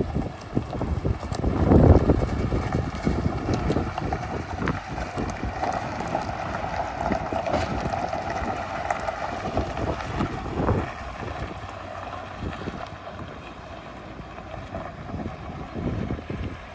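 Dodge Ram 1500 pickup engine running, with wind gusting on the microphone.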